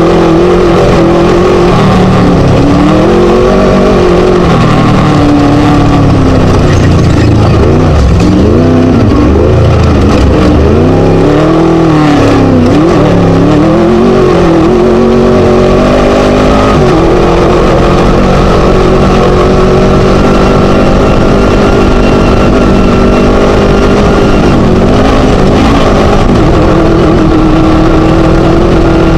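Class 1 desert race buggy's Scat V4 engine running hard, its revs rising and falling again and again through the first half, then holding steady at high revs.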